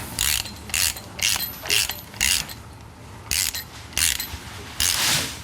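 Hand ratchet wrench clicking through about eight strokes, five in quick succession, a brief pause, then three more, snugging down a nut on suspension hardware.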